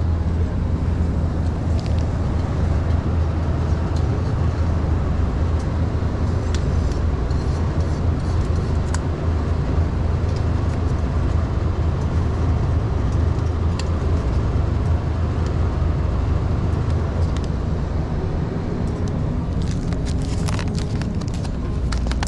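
Truck engine running with a steady low rumble, heard from inside the cab, with a few light clicks near the end.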